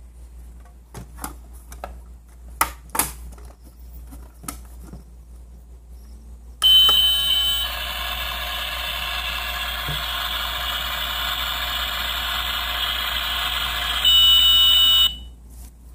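Battery-operated toy stove playing its electronic cooking sound effect through a small speaker: a high beep tone, then a steady hiss for about seven seconds, then the beep again before it cuts off. Before it starts, a few sharp clicks of plastic parts being pressed and handled.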